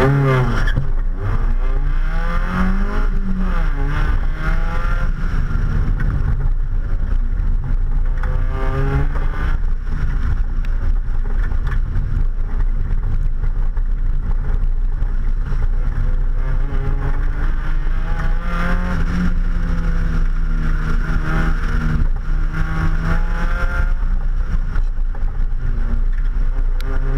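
Mazda Miata's four-cylinder engine revving up and down again and again through an autocross course, its pitch rising under acceleration and dropping as the throttle is lifted, over a steady low rumble.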